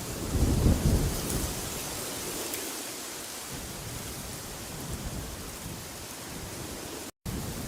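Steady rushing wind, with a loud low rumbling gust about half a second in that lasts around a second. The sound cuts out for an instant near the end.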